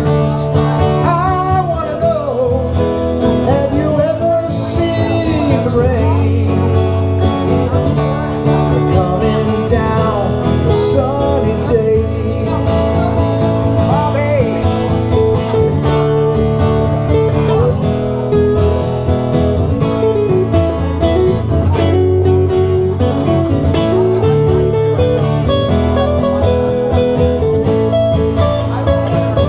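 Live acoustic guitar music: strummed guitar under a melody line that bends in pitch, in a country-rock song.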